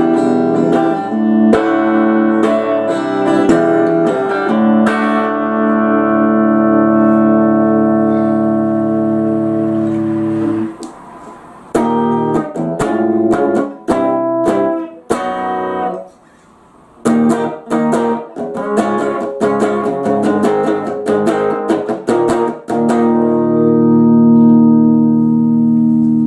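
1966 Fender Telecaster electric guitar with its tone control at halfway, played with picked notes and chords. A chord rings for several seconds, then after two short stops come quicker picked notes, ending on a ringing chord.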